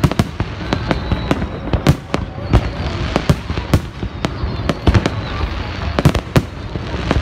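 Fireworks display: aerial shells bursting overhead, a fast uneven run of sharp bangs, two or three a second, over a steady rumble and crackle.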